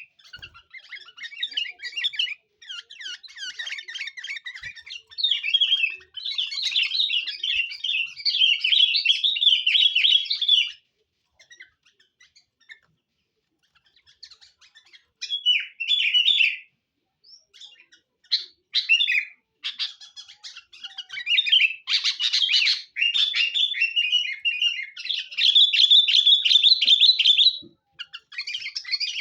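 Sooty-headed bulbul (kutilang) singing vigorously in long runs of rapid chirps and whistles, with a pause of a few seconds about midway: the lively song used as a lure call to attract other bulbuls.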